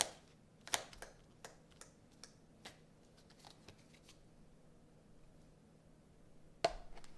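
Tarot cards being handled: a string of light, sharp clicks and taps as cards are flicked and laid down, thinning out after about three seconds, with a louder tap near the end.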